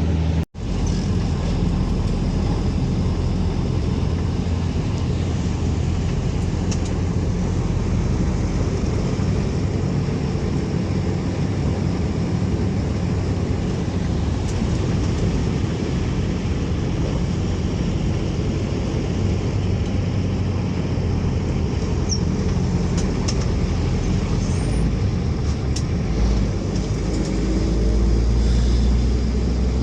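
Steady vehicle engine and road rumble, cut by a brief dropout about half a second in; the low rumble grows a little louder near the end.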